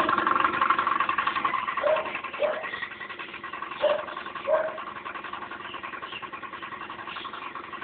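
Honda Dio scooter engine idling, with the strange engine noise the owner hears. The running sound grows quieter about two seconds in, and two pairs of short squeaks come at about two and four seconds.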